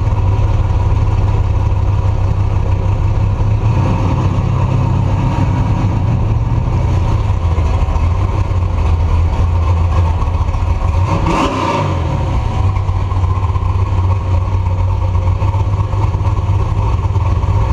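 Truck engine and exhaust running steadily with a constant low drone, heard from a camera mounted at the back of the truck. About eleven seconds in a brief whoosh swells and fades.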